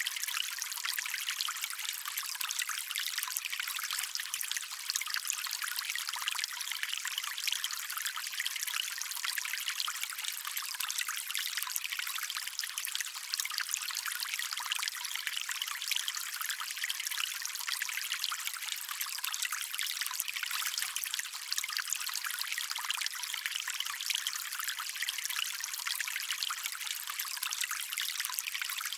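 Shallow stream of water running and trickling steadily over stones, an even hiss of water with a light bubbling texture and almost no low rumble.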